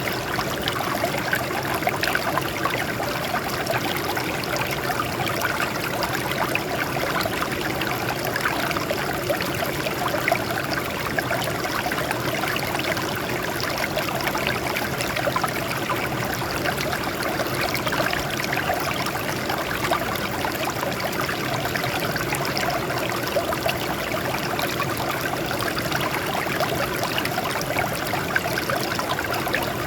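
Water flowing and trickling over rocks, with a steady splashing and burbling.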